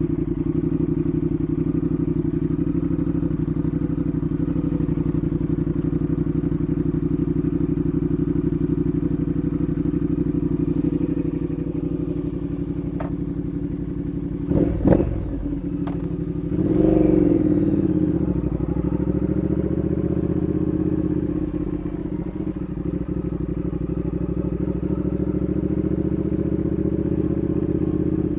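Triumph Speed Twin's 1200cc parallel-twin engine idling steadily just after starting, blipped briefly twice about halfway through, the pitch rising and falling back to idle each time.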